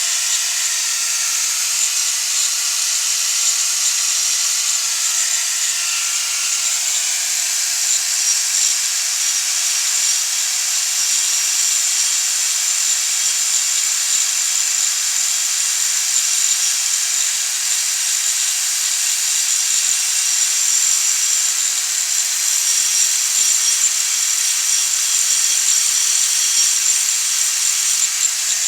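A small handheld power tool running continuously with a high-pitched hiss. Its tone shifts up slightly about six seconds in.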